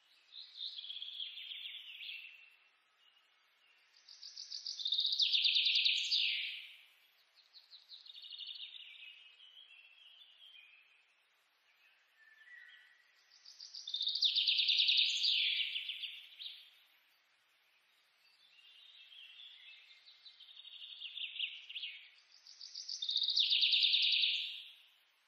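Birds singing in high, rapid trills that swell and fade in repeated bouts, the loudest about five, fifteen and twenty-four seconds in.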